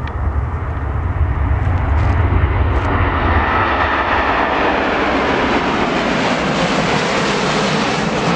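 Jet airliner's engines passing close, a dense roar that grows louder over the first three seconds and then holds loud.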